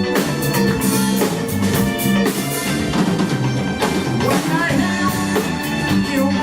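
Live band playing a song: drum kit keeping a steady beat under bass and keyboards or guitar, with a rising slide in the lead part about four seconds in.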